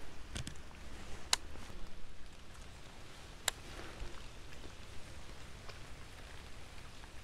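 Rain falling on a lake, a steady patter, with a few sharp ticks scattered through it.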